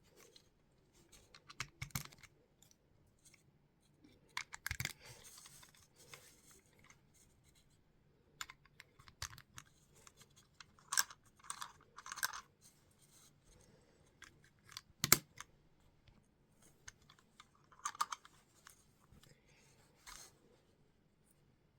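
Plastic Lego pieces being handled and pressed together: irregular clicks and short scraping rustles at uneven intervals, the sharpest click about fifteen seconds in.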